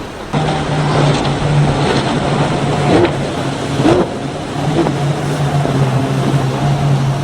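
Powerboat engines running at speed with a steady low drone that cuts in sharply about half a second in, over a rushing wash of water and wind.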